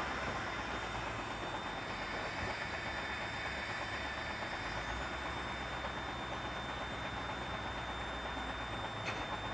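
Container truck driving: a steady diesel engine hum under even road noise.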